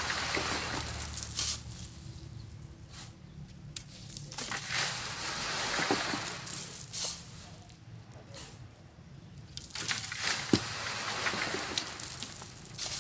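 Sand being shoveled onto a sifting screen and pouring through it: three hissing rushes a few seconds apart, with scattered clicks and scrapes.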